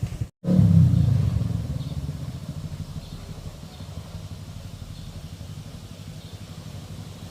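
An engine running with a low, even pulse, loudest just after a cut about half a second in, then settling to a steadier, quieter level.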